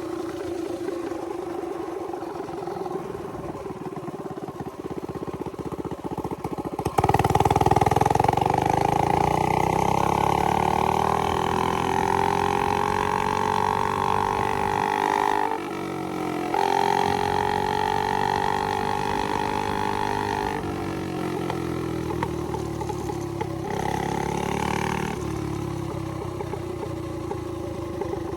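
Coleman CT100U mini bike's small single-cylinder engine running at low throttle, then opened up sharply about a quarter of the way in, its pitch climbing as the bike accelerates. The throttle is let off briefly around the middle and reopened, then eases back and picks up once more near the end.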